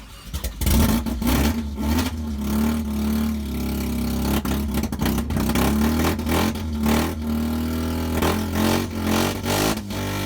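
GM LS1 5.7-litre V8 in a Nissan 240SX catching on its first start and running steadily, with many irregular sharp pops over the steady engine note.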